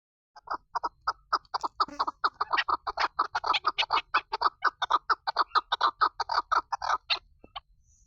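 Female chukar partridge (chakor) calling: a rapid run of sharp clucking notes, about five or six a second, that goes on for nearly seven seconds and stops shortly before the end.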